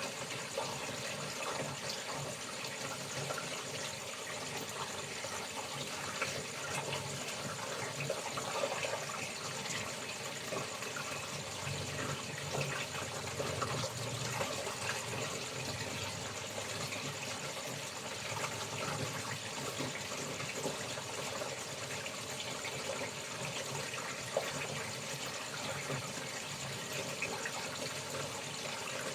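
Water running and splashing steadily during laundry washing, with a few small knocks. A steady high insect chorus runs beneath it.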